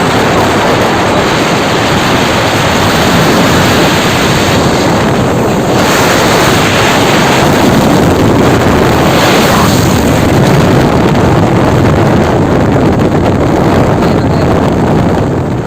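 Loud road traffic noise with heavy wind buffeting the microphone, a dense steady rush without any clear engine tone or horn.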